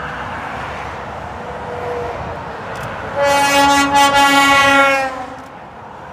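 A lorry's air horn sounding one long blast of about two seconds, its pitch dropping slightly near the end as the truck passes. Steady motorway traffic noise runs underneath.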